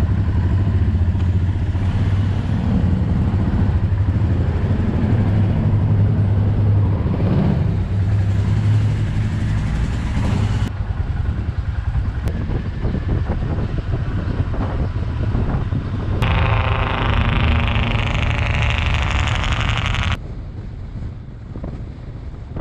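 Royal Enfield Himalayan single-cylinder motorcycle engines running under way, a steady low throb. The sound changes abruptly about 11, 16 and 20 seconds in, and is quieter over the last couple of seconds.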